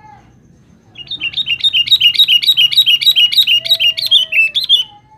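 Sooty-headed bulbul (kutilang) singing a fast run of repeated two-note chirps, about four phrases a second, starting about a second in and stopping near the end.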